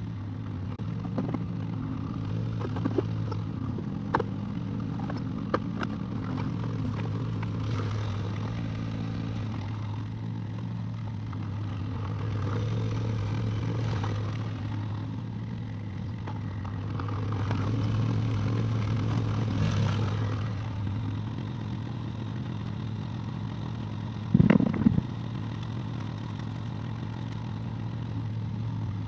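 Excavator engine running steadily under work, getting louder twice as it takes load, with scattered clanks and scrapes of the bucket in the first few seconds and a loud metallic knock near the end.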